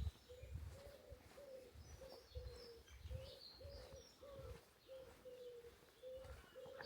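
Dove cooing, a low note repeated about twice a second, with small birds chirping faintly in the middle.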